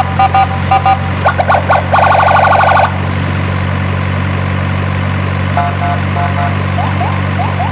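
Truck engine idling steadily, with short beeping tones in the first second and again later, a fast trilling tone about two seconds in, and quick rising chirps near the end.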